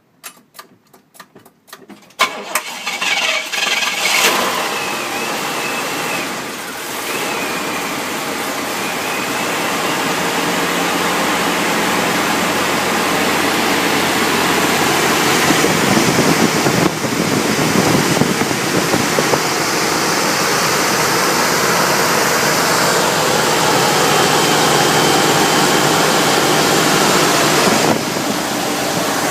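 1976 Cadillac Eldorado's carburetted 500-cubic-inch V8 cranking on the starter for about two seconds. It then catches and runs steadily, getting slightly louder over time.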